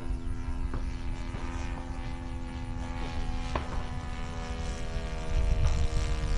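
Radio-controlled model airplane flying overhead, its motor and propeller giving a steady drone that holds one pitch. A low rumble grows louder near the end.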